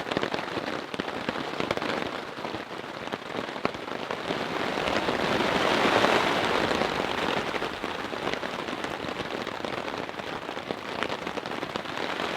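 Heavy rain pouring onto a tarp shelter overhead: a dense, steady patter of drops with sharper individual hits, swelling louder about halfway through.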